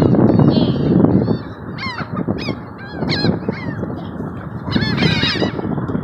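A flock of seagulls calling over one another, repeated short, downward-falling squawks, most crowded around five seconds in, over a steady low rushing noise.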